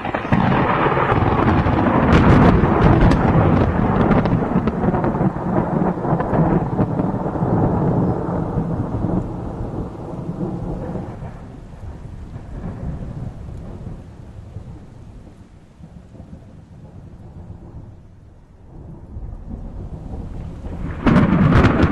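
A long roll of thunder with rain: a loud crackling clap right away that rumbles and slowly dies down over some fifteen seconds, then a new sharp thunderclap near the end.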